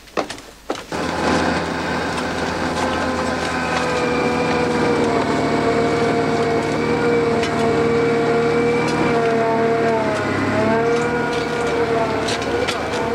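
A machine starts about a second in and runs with a steady whine and low hum, dipping briefly in pitch near the end, with scattered light knocks.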